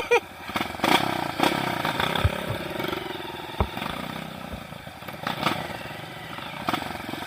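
Trail motorcycle engine running, with a few sharp knocks and clatter in the first half.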